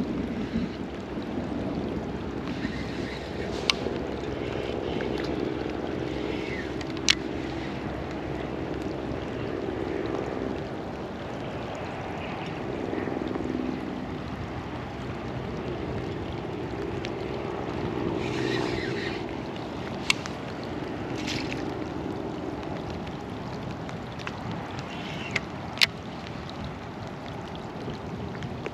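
Kayak on the water: a steady wash of water against the hull with wind noise, broken by a few sharp clicks or taps.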